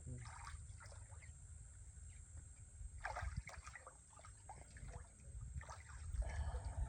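Water splashing and sloshing in short bursts as people move about in a natural pool, over a steady low rumble.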